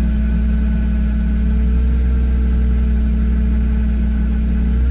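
A 1997 BMW 328i's straight-six engine running steadily just after catching on a −25 °C cold start. Its pitch wavers slightly while the level stays even.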